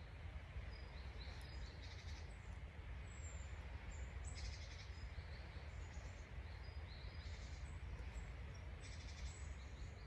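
Small songbirds chirping on and off in the woods, short high notes scattered throughout, over a steady low rumble of outdoor background noise.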